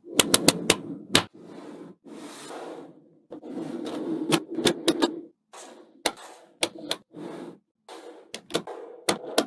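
Small neodymium magnet balls clicking and snapping together, with a run of sharp clicks in quick succession near the start and more scattered clicks over a loose rattling as the balls are handled.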